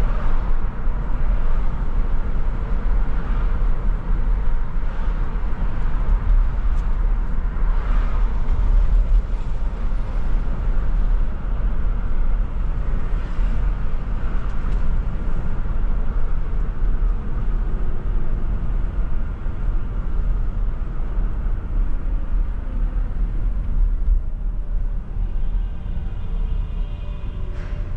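Steady road noise of a car driving on city streets, a constant deep rumble with lighter traffic noise above it.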